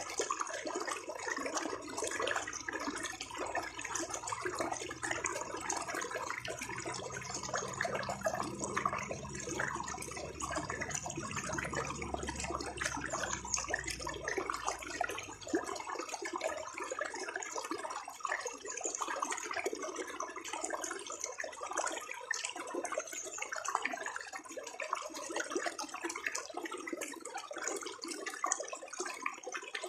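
Shallow running water babbling steadily, with a low rumble underneath that dies away about halfway through.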